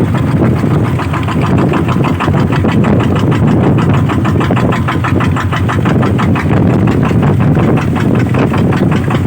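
Engine of an 'iron ox' motor cart running steadily and loudly, with an even, fast beat.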